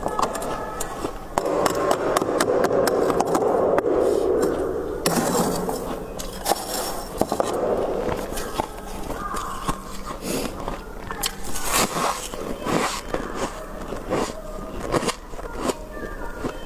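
Soft white freezer frost crunching close to the microphone: a dense, steady crunch for a few seconds, then sharper, scattered crunches.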